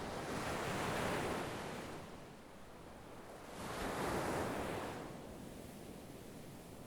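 Sea waves washing onto the shore, swelling and fading twice, a surge about a second in and another about four seconds in.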